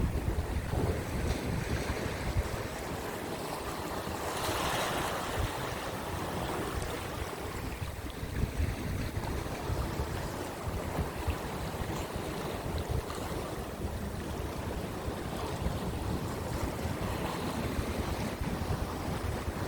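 Rough sea surf washing against the rocks under strong wind buffeting the microphone, with one louder wave surge about four seconds in.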